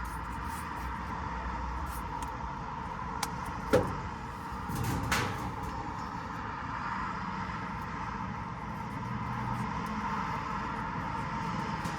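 Steady background machinery hum, with a sharp click about four seconds in and a short rasp about a second later as electrical tape is wrapped around wire-nut splices.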